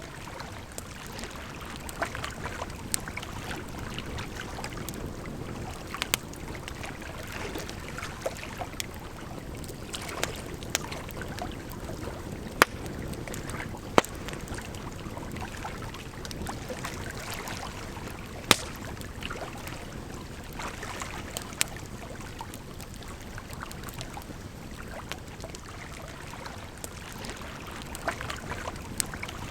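Campfire crackling, with sharp scattered pops over a steady rush of water.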